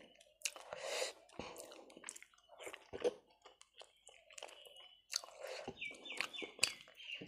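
Close-up mouth sounds of chewing and biting toasted bread with chicken curry: irregular wet clicks, smacks and light crunches.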